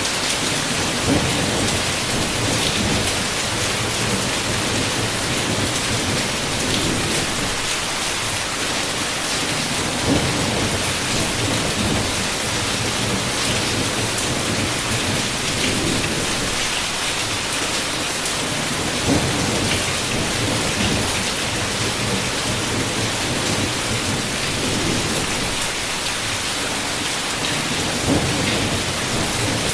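Heavy rain pattering steadily against a window, with low thunder rumbles swelling and fading about every nine seconds.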